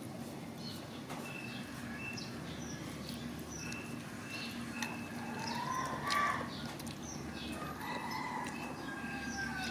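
Small birds chirping in short high notes about twice a second, with two longer calls that rise and fall, the louder one about six seconds in, over a steady low hum.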